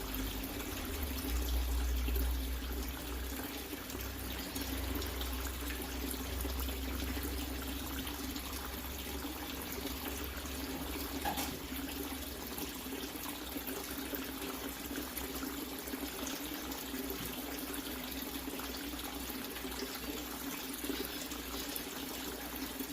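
Water running and splashing steadily into a tank, with a steady hum underneath; a low rumble fades out about halfway.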